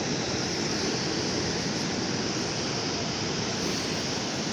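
Sea waves washing onto the shore: a steady rushing noise.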